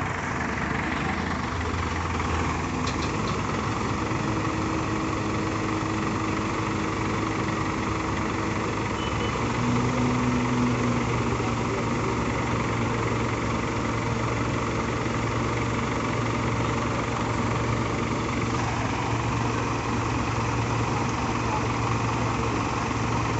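Heavy vehicle engine running steadily at low revs, its note shifting a little about nine to ten seconds in.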